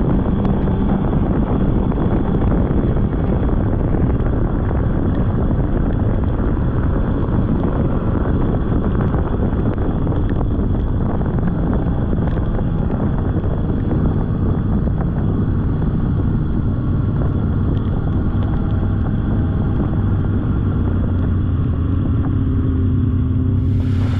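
Polaris snowmobile engine running steadily as the sled rides along a trail, a loud, even drone with no breaks.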